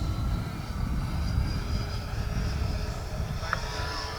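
RC jet's 80 mm electric ducted fan in flight, a steady faint high whine over a heavy low rumble.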